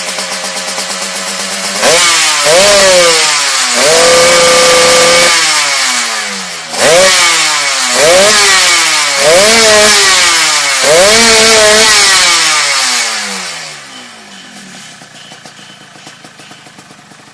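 Yamaha RX-King's two-stroke single-cylinder engine, fitted with an aftermarket B-pazz exhaust, idling, then revved in about six sharp throttle blips, two of them held for a second or so, before falling back to a quieter idle near the end.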